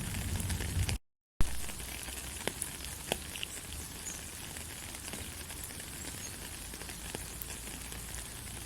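Gentle steady rain: an even hiss with scattered faint drop ticks. About a second in, the sound cuts out to dead silence for a fraction of a second, then comes back with less low rumble, an edit join in the recording.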